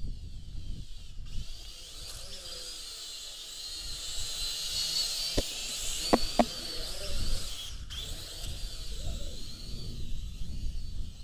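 Small brushed motors and propellers of a Syma X5C-1 toy quadcopter whining, the pitch wavering up and down, strongest mid-way, with wind rumbling on the microphone. A few sharp clicks come about halfway through.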